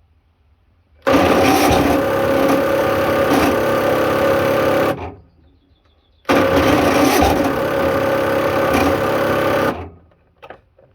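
A motor runs at a steady pitch in two bursts of about four and three and a half seconds, switching on and cutting off abruptly each time, with silence between. A couple of light clicks follow near the end.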